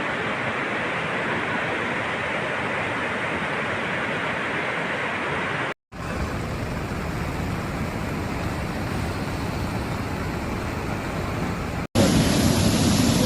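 Steady rushing of floodwater, in two stretches that break off briefly about six seconds in, then a louder, deeper stretch of the same kind of noise near the end.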